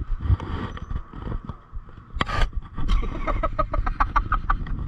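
Mountain bike riding over a wet dirt trail: a steady low rumble of tyres and wind on the microphone, with scattered knocks and rattles, one sharp knock a little past two seconds in, and a quick run of short pitched ticks in the second half.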